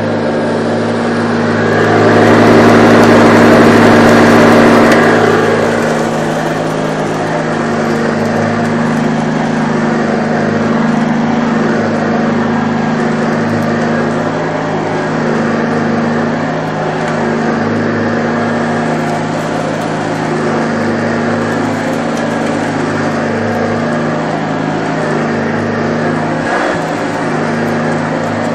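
1984 Hoover Junior U1104 upright vacuum cleaner running steadily, its 300-watt motor and belt-driven agitator brush roll giving a constant hum. The sound grows louder and rougher for a few seconds about two seconds in, then settles back.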